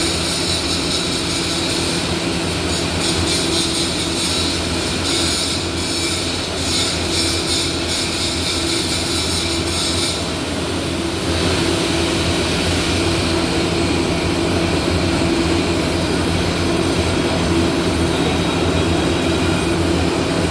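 Welding workshop noise: a steady low machine hum under a harsh high crackling hiss, typical of arc welding and grinding. The crackle stops about ten seconds in, and a smoother steady hiss carries on.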